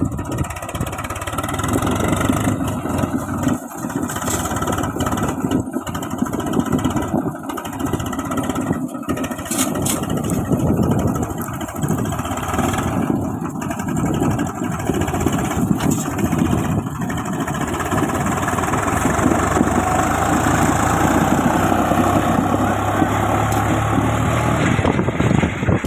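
Swaraj 735 FE tractor's three-cylinder diesel engine running. The sound is uneven with brief dips at first, then steadier and a little louder over the last several seconds.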